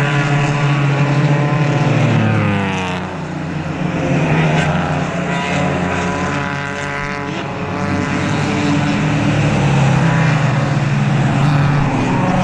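Several race car engines passing one after another at racing speed. About two seconds in, one engine's pitch falls steeply as it goes by.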